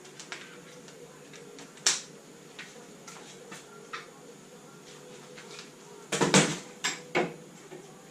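Metal hand tools and parts clinking and knocking during work on an engine: a sharp knock about two seconds in, then a loud cluster of clanks about six seconds in, followed by two more.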